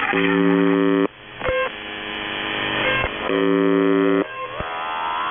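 Shortwave radio reception of the UVB-76 'Buzzer' frequency. Two buzz tones about a second each are separated by static hiss and a brief beep. Near the end come rising, wavering whistles from a pirate transmission.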